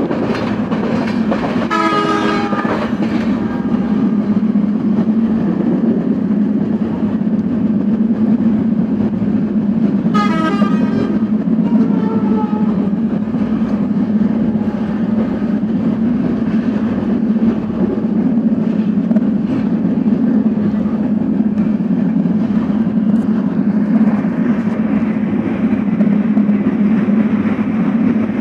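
Dhumketu Express passenger train running at speed, a steady rumble of wheels and carriage heard from inside the coach. A horn sounds briefly about two seconds in and again, in two parts, around ten to twelve seconds in.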